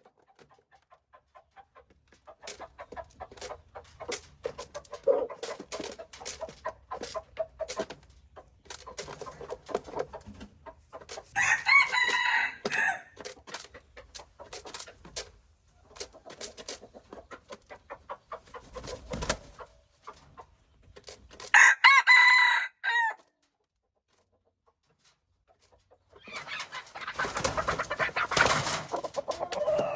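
Chickens clucking in short repeated calls, with a rooster crowing twice, about a third and two thirds of the way through. Near the end comes a stretch of rustling noise.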